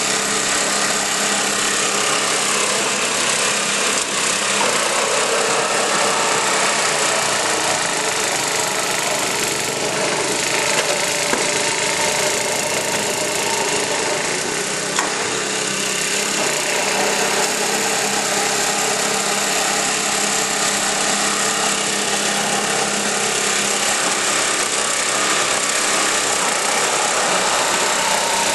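Craftsman snow blower engine running steadily, warming up after a cold start.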